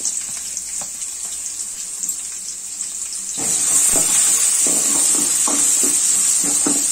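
Sliced shallots sizzling steadily in hot oil in a metal kadai. About three and a half seconds in, the sizzle grows louder as a metal ladle starts stirring, with short scrapes against the pan.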